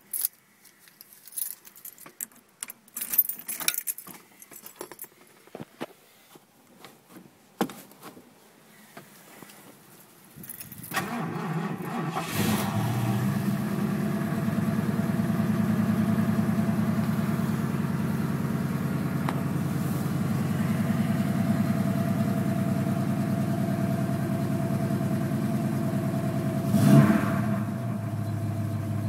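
Scattered clicks and rattles, then a 1972 Ford Mustang's V8 cranks briefly and fires about eleven seconds in. It settles into a steady cold-start idle, with one brief louder moment near the end.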